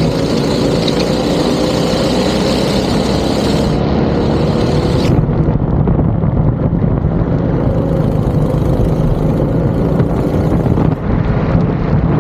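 Go-kart engine running hard at racing speed, with a steady engine note and rumble.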